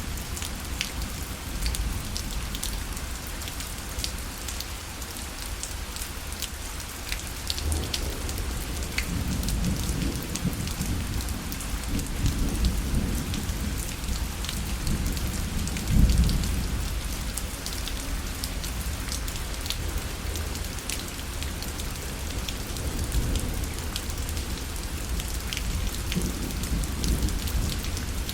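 Steady rain falling on a fabric parasol, with many sharp drop ticks. A low rumble builds about a quarter of the way in and is loudest just past halfway.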